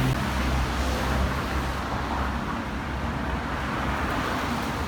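Street traffic: a steady low rumble of vehicle engines and tyres passing on the road.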